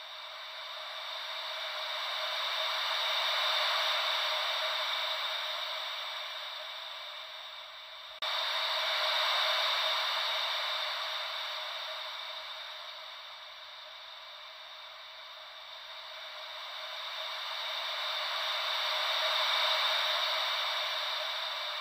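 Gentle ocean-wave white noise: a thin, hissy wash with no bass that swells and fades in three slow surges, with a sudden step up in loudness about eight seconds in.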